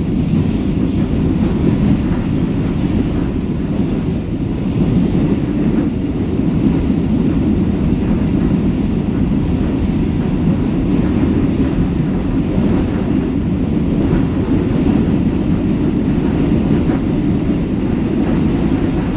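Seoul Metro Line 4 new-model electric train running between stations, heard from inside the passenger car: a steady, loud, low rumble of wheels on rail and running gear.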